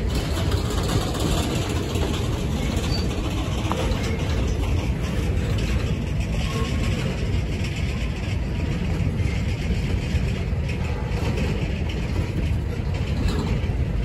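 Covered hopper cars of a freight train rolling past, a steady rumble of wheels on rail.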